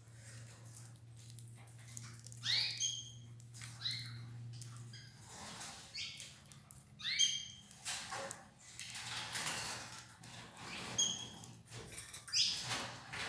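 Domestic canaries giving short rising chirp calls every few seconds, with some rustling and fluttering as they feed on escarole. A low hum runs under the first five seconds and then stops.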